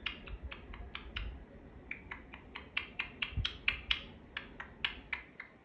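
Indian ringneck parakeet giving a rapid run of short, sharp, high chirps, about four or five a second.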